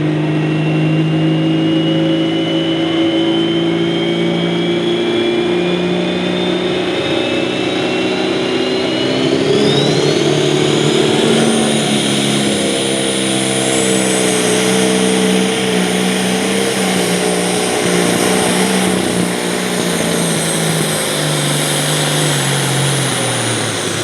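Pro stock pulling tractor's turbocharged diesel at full power on a pull run, a high turbo whine climbing steadily in pitch through the first half and then holding. In the second half the engine note slowly sags lower as the sled load builds.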